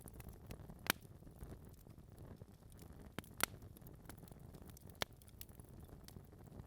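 Wood fire burning in a fireplace: a low steady rumble of flames with scattered sharp log crackles and pops, the loudest about a second in and again near the middle.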